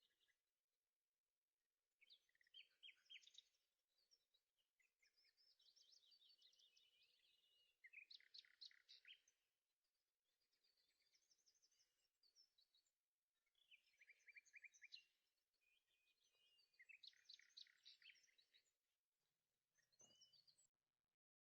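Faint bird song: short chirping, trilled phrases repeated every second or two, with brief pauses between them.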